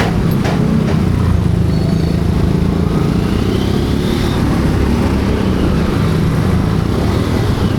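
Motorcycle on the move: a steady, loud low rumble of engine and road noise.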